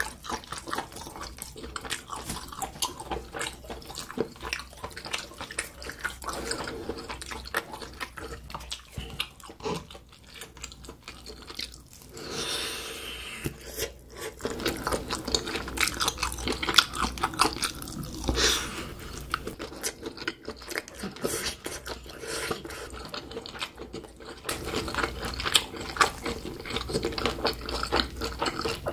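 Close-miked chewing of spicy grilled octopus (nakji horong-gui), with dense wet smacking and sticky mouth clicks. A short hiss comes about twelve seconds in.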